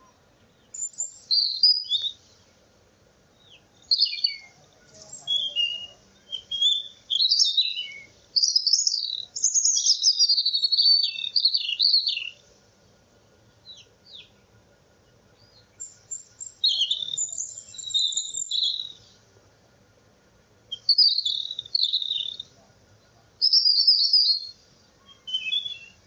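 A small bird chirping and singing in rapid, high-pitched, varied phrases, coming in bursts of one to several seconds with short pauses between.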